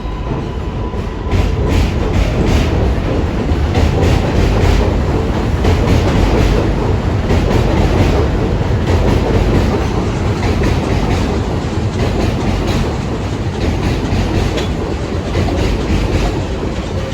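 New York City subway train running through on elevated track, a steady rumble with wheels clacking over the rail joints, growing louder about a second and a half in.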